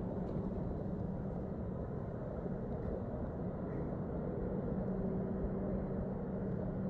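A distant engine hums steadily over a low rumble. The hum grows a little stronger about five seconds in.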